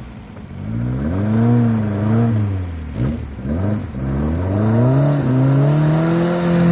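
Air-cooled VW flat-four engine revving in about four rising and falling surges, then climbing to a steady high pitch near the end, as the rear-wheel-drive car tries to drive out of deep snow.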